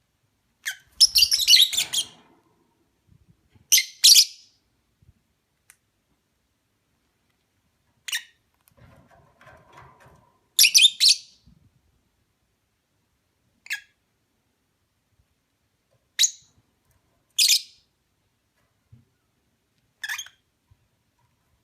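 Fischer's lovebirds calling in short, high-pitched chirps, about eight separate bursts over twenty seconds with quiet gaps between.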